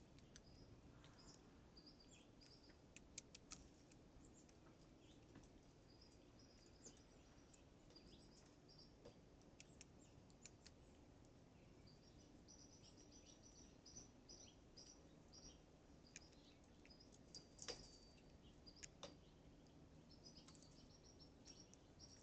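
Near quiet, with faint high chirps of small birds scattered throughout, busier in the second half, and a few sharp light clicks, the loudest a little past the middle.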